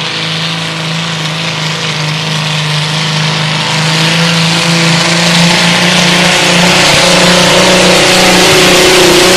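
Minneapolis-Moline pulling tractor's engine running hard at a steady high speed under load during a pull, growing steadily louder.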